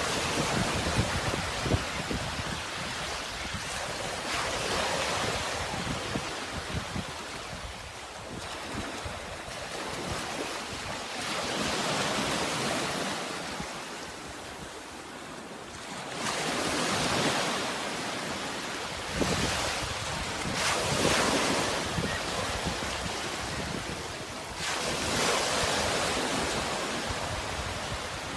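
Sea waves washing in on the shore, each surge of surf swelling and fading every few seconds, with some wind.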